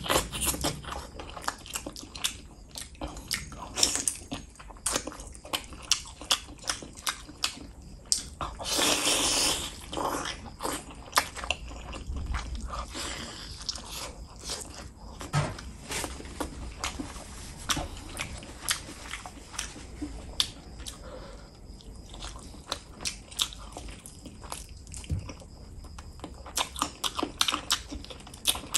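Close-miked mouth sounds of eating a curried chicken drumstick and rice by hand: chewing and biting with many quick, sharp smacks and clicks, and a longer, louder stretch about nine seconds in.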